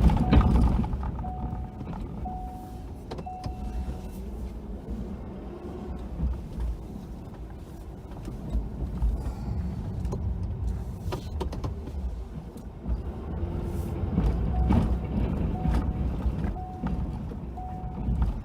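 Snow-plow pickup truck's engine running steadily while plowing, with a few knocks. A backup alarm beeps about once a second for the first few seconds and again over the last few seconds.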